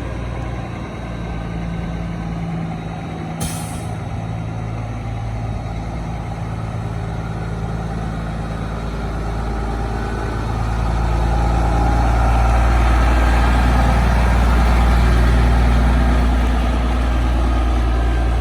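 Diesel engine of a 1999 Kenworth W900B truck tractor running, with a short hiss of air about three and a half seconds in. About ten seconds in the engine grows louder and stays up.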